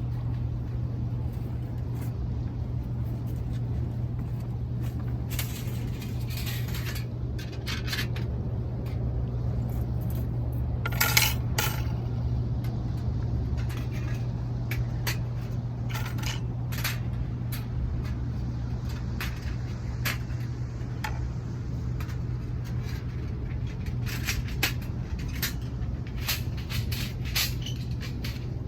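Scattered light clinks and clicks, a cluster of them about eleven seconds in and more near the end, over a steady low rumble.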